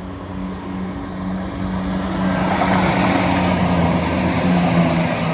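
Class 170 Turbostar diesel multiple unit pulling away from its stop, its underfloor diesel engine running with a steady hum. The engine and wheel noise grow louder from about two seconds in.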